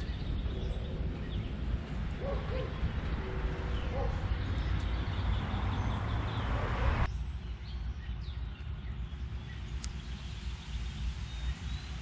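Outdoor backyard ambience: a steady low rumbling noise with a few short bird calls and faint chirps over it. About seven seconds in the sound changes abruptly to a quieter background with occasional faint chirps.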